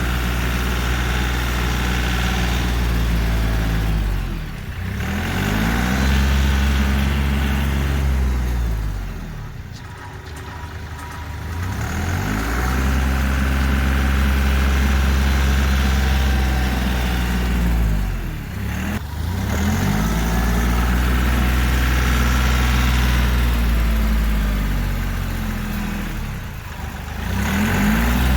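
Kioti CK3510 compact tractor's three-cylinder diesel engine running, its revs dropping and climbing back up four times.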